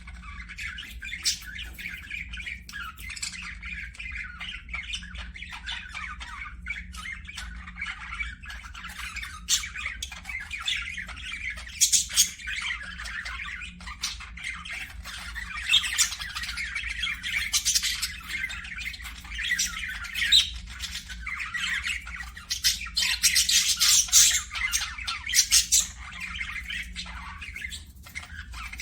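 Several parakeets chattering and squawking continuously in a dense mix of short calls, with louder, sharper squawks around 12 seconds in and again between about 23 and 25 seconds in.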